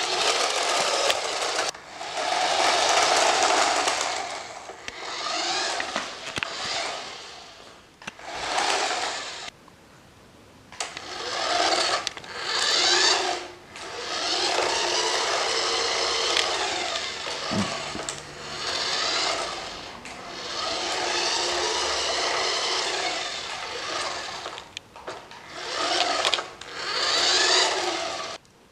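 Small electric motors and gears of toy radio-controlled cars whirring as they drive, in bursts of a few seconds that start and stop repeatedly.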